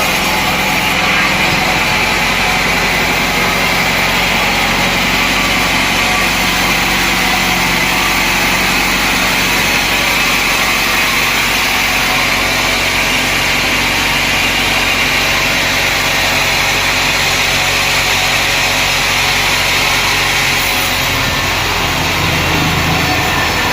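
Sawmill machinery running steadily at full volume, a continuous engine-and-blade drone with a slight change in its low tone near the end.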